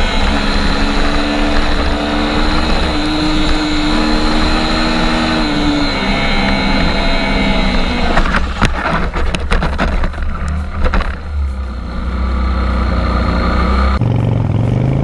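Motorcycle engine running at a steady pitch over loud road and wind noise. From about eight seconds in come a cluster of sharp knocks and clatter. Near the end the sound changes abruptly.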